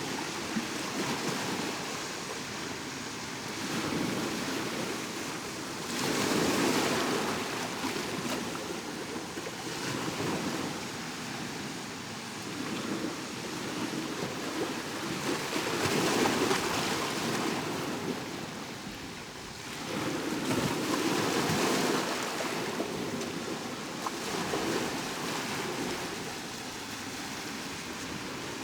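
Sea waves breaking on the shore, each swelling into a rushing surge and washing back every few seconds. The strongest surges come about a fifth, a half and three quarters of the way through.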